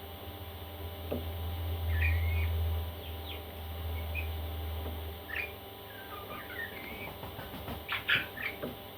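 Parrot chicks making short, high squeaks and chirps, scattered through the clip and bunched together near the end, over a low hum that swells during the first half and then fades.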